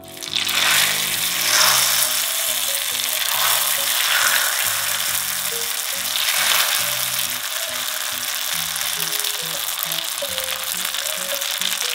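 Rice paper and seaweed sheets deep-frying in hot oil: a loud sizzle starts suddenly as the first sheet goes in. It swells several times over the first seven seconds, then settles to a steady crackling hiss.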